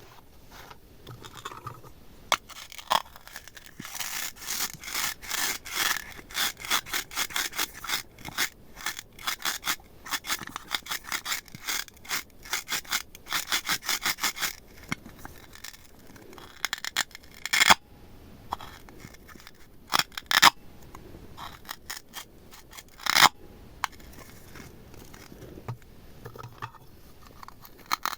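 Slime being worked and mixed by hand: a rubbing, crackling sound with rapid runs of small clicks, then a few louder sharp snaps.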